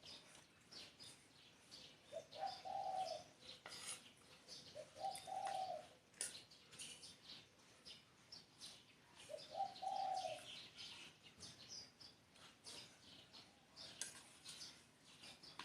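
Spotted dove cooing, three short low coo phrases a few seconds apart, with many small birds chirping high throughout.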